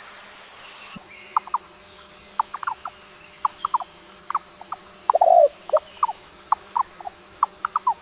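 A bird giving short, sharp squeaky chirps at irregular intervals, with one longer, louder squealing call about five seconds in.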